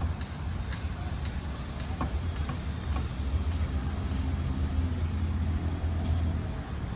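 Steady low rumble of road traffic on a city street, with footsteps ticking about twice a second.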